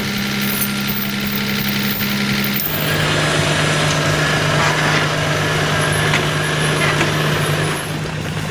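Logging truck engine running under load, a steady drone over broad road and mechanical noise. The drone drops in pitch about two and a half seconds in.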